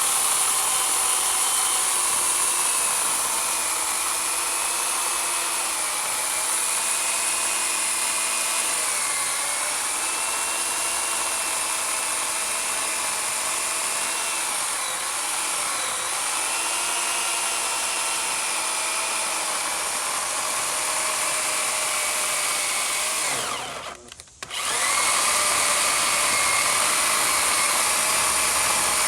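Proyama PCS 18A 15-amp corded electric chainsaw cutting through an oak log, its motor whine dipping in pitch again and again as the chain bites into the wood. About 24 seconds in, the motor winds down and stops for a moment, then starts up again and goes on cutting.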